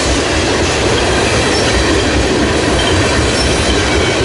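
Freight train cars rolling past at close range: a steady, loud rumble of steel wheels on rail.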